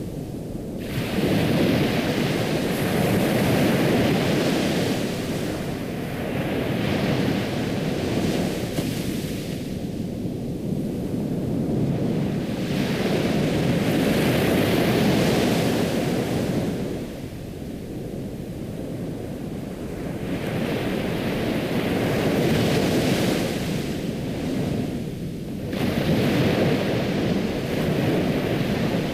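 Ocean waves washing onto a shore, the surf rising and falling back in slow surges several seconds apart.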